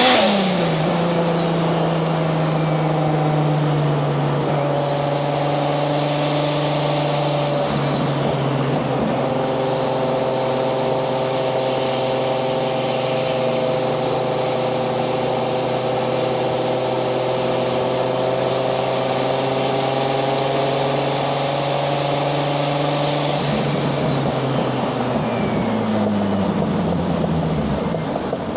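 Swapped 1JZ VVTi inline-six turbo engine in a Nissan 240SX running at a steady cruise. Its revs drop off right at the start and fall away again about 24 seconds in as the car slows. A high whistle rises and falls above the engine note through the middle stretch.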